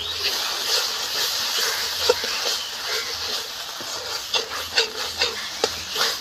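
Spice paste and sour yogurt sizzling in a metal wok while a flat metal spatula stirs and scrapes it, frying the masala down; the scraping strokes come quickly and sharper in the second half.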